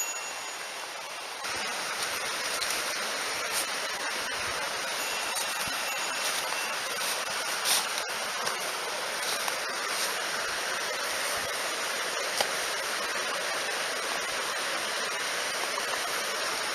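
Mountain stream rushing steadily, a little louder from about a second and a half in, with a few faint clicks over it.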